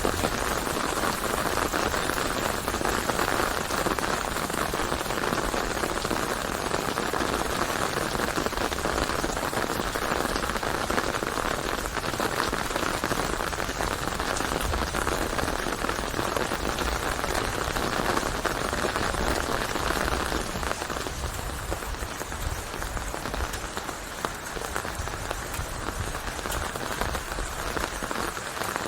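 Steady rain falling and pattering on a surface, a dense even hiss of many drops, easing slightly about two-thirds of the way through.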